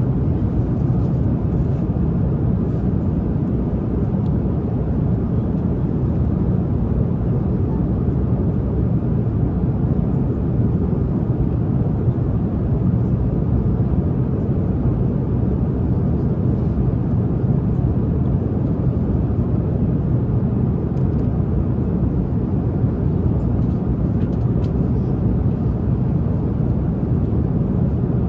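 Steady airliner cabin noise in flight: the even, low drone of the jet engines and airflow, unchanging throughout.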